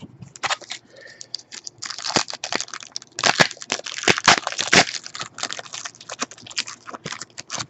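Trading cards being handled and flipped through by hand: a rapid run of dry clicks and rustles, densest in the middle.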